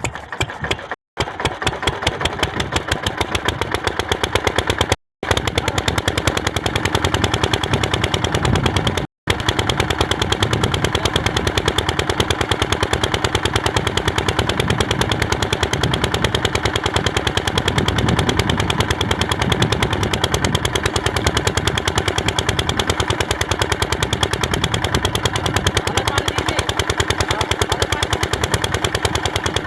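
Diesel engine driving a water pump, running steadily with a rapid, even stream of sharp exhaust beats. The sound drops out briefly three times in the first ten seconds.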